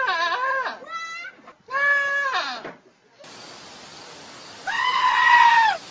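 Goat bleating sound effects: three short, wavering bleats, then, over a hissy recording, one longer, louder goat scream near the end.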